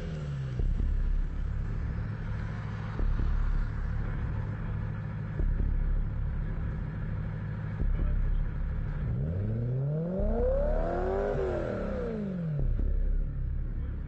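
BMW E92 M3 V8 through an Eisenmann Inconel exhaust, running at low revs and then revved up and back down once about ten seconds in.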